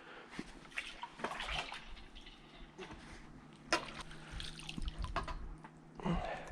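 Water dripping and splashing off a dip net worked in shallow canal water: an irregular scatter of small drips and splashes.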